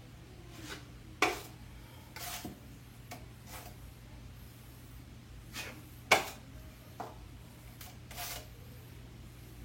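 Drywall knife scraping and clicking against the wall as quick-setting joint compound is pressed into screw holes: several short, irregular strokes.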